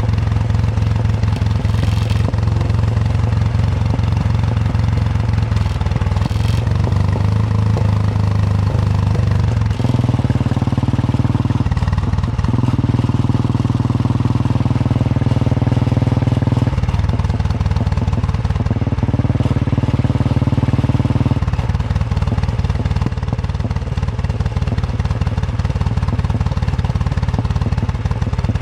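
Royal Enfield Bullet 350's single-cylinder engine thumping under way, its note stepping to a new pitch several times as the rider changes throttle or gear.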